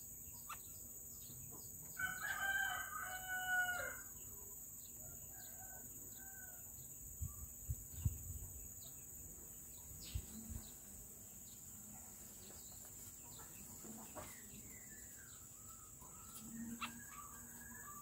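Birds calling: a loud, drawn-out call lasting about two seconds near the start, then scattered short chirps and calls, over a steady high-pitched buzz. A few soft low thumps come midway.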